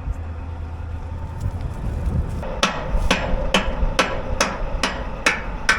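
Hammer blows on steel: about eight sharp, ringing metal-on-metal strikes, evenly spaced about two a second, beginning about halfway through.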